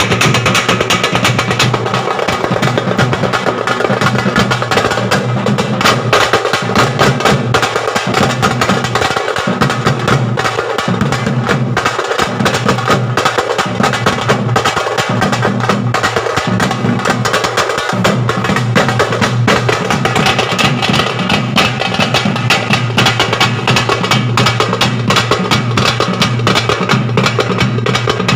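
Drum band playing a fast, dense, loud rhythm without pause, the Tamil 'mirattal adi' beat: rapid sharp strokes over booming low drums in repeating groups of about a second.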